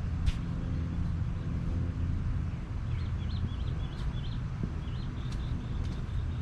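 A steady low mechanical drone, like an engine running, with a single sharp click near the start and a small bird chirping a quick run of high notes about three seconds in.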